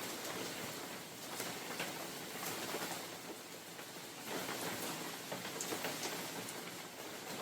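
Steady rain falling in a forest, with many small drop ticks on leaves and surfaces and gentle swells in the hiss as wind passes through.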